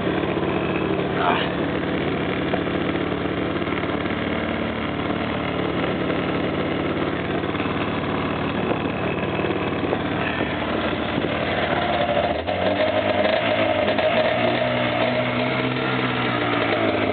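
1992 Polaris Indy 500 snowmobile's two-stroke engine running steadily just after a cold start, still frozen-cold with a sticky throttle. About twelve seconds in, it is revved up, its pitch rising and falling and getting louder.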